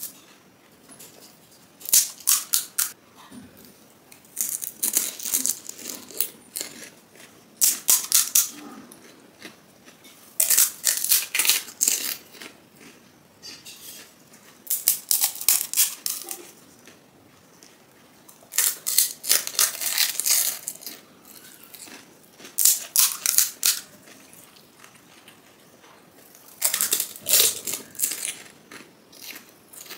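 Crisp panipuri (golgappa) shells crunching as they are bitten and chewed close to the microphone, in eight or so spells of rapid crackling a few seconds apart.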